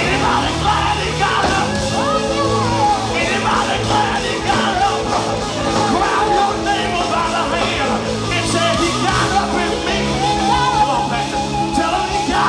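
Live gospel quartet music: a band playing with steady bass notes under wavering, sustained singing voices.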